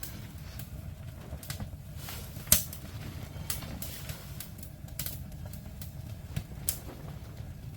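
Wood fire crackling: irregular sharp pops and snaps over a low steady rumble, with one loud crack about two and a half seconds in.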